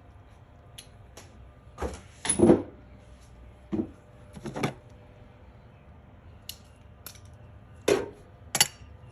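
Metal hand tools clinking and clattering in a handful of short knocks, loudest about two and a half seconds in: socket wrench extensions being handled while a longer one is sought.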